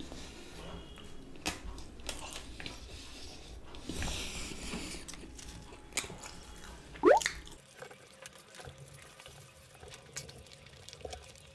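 Close-miked chewing of cheesy pizza: wet mouth clicks and smacks, with a short rising sound about seven seconds in.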